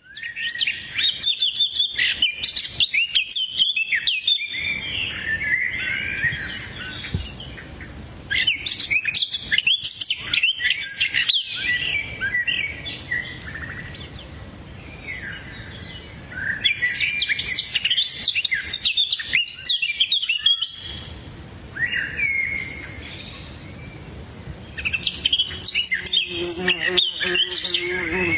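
Several birds chirping and twittering in quick, overlapping runs of high calls, in three or four busy spells with quieter stretches between.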